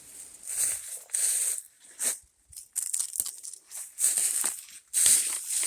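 Footsteps crunching through dry leaf litter, one crunchy rustle roughly every second.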